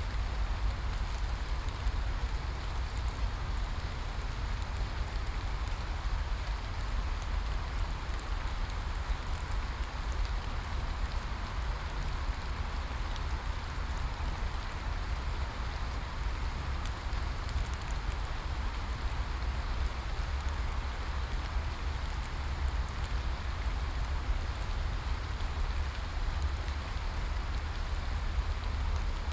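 Steady rain falling on a surface, an even hiss with a deep low rumble underneath and scattered faint drop ticks.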